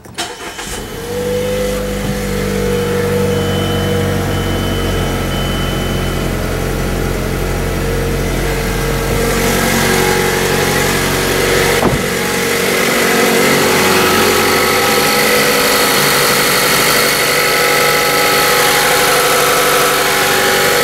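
2013 Mazda3's Skyactiv 2.0-litre four-cylinder engine, freshly refilled with oil, starting with the push button and settling within about a second into a steady idle. The sound turns brighter and hissier about halfway through, with a single sharp click a little later.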